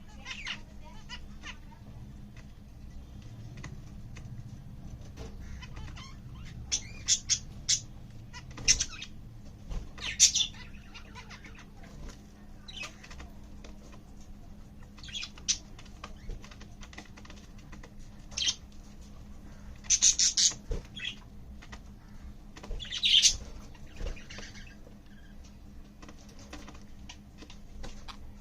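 Lutino budgerigar giving short, scattered chirps, several in quick clusters, over a faint steady hum.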